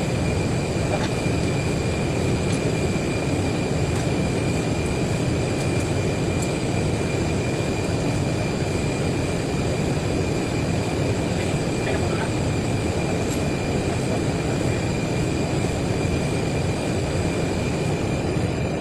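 A machine running steadily: a constant rumble with a thin high whine over it.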